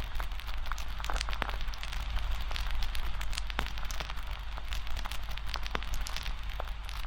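Wood bonfire crackling, with irregular sharp pops over a steady hiss and a steady low rumble beneath.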